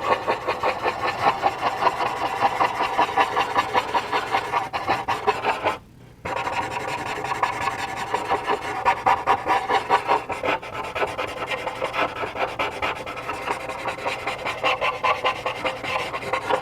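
Charcoal being blended on textured charcoal paper: a blending tool rubbing in quick back-and-forth strokes, several a second, with a brief pause about six seconds in.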